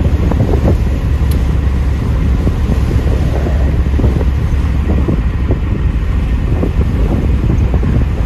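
Steady low rumble of a 1984 Pontiac Trans Am driving at road speed: engine and road noise, with wind buffeting the microphone.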